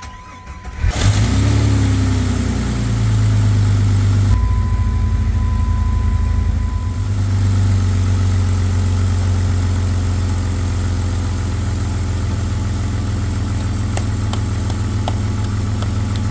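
Jeep Grand Cherokee WJ's freshly rebuilt 4.0 straight-six starting about a second in, revving briefly, then settling into a steady, smooth idle. Under the idle runs a slight tick, which the owner takes for a small exhaust manifold leak.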